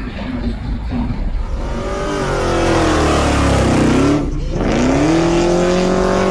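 Car engine revving hard: its pitch falls for a couple of seconds, cuts out briefly about four seconds in, then climbs again as it revs back up.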